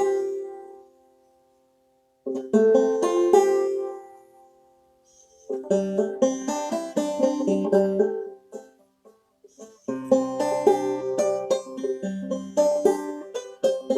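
Five-string banjo played clawhammer style, in short phrases that stop and start again three times, with gaps of about a second between them.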